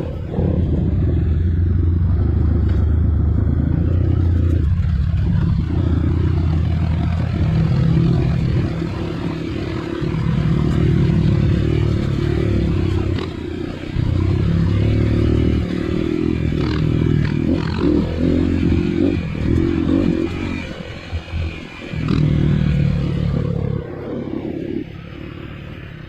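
Trail dirt bike engine running under varying throttle, its note stepping up and down and easing off briefly several times, then dropping lower near the end.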